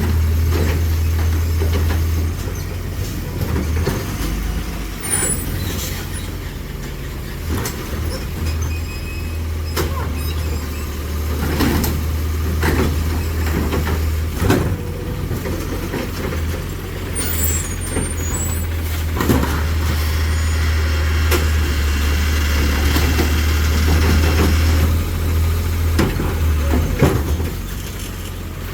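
Autocar ACX garbage truck with a New Way Sidewinder automated side-loading arm running, its engine drumming steadily underneath. Knocks and clanks from the arm and bins come throughout, with short high squeals and air-brake hiss.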